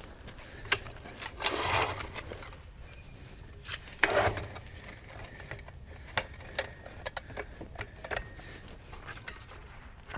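Scattered clicks, clinks and knocks of hand tools and metal parts being handled while working on a car, with a couple of louder scraping sounds about two and four seconds in.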